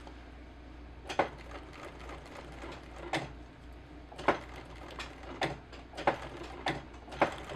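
Sewing machine stitching a zipper onto a jacket slowly, stitch by stitch: a sharp clack of the needle at each stroke, roughly one to two a second, starting about a second in, over a low steady hum.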